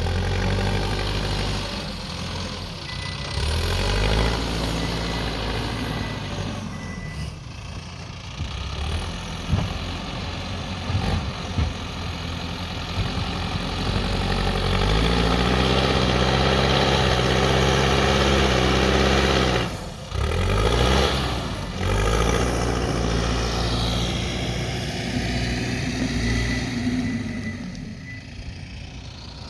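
Backhoe loader's diesel engine running and working, its pitch rising about halfway through and holding for several seconds before dropping off sharply, with scattered short knocks from the machine at work.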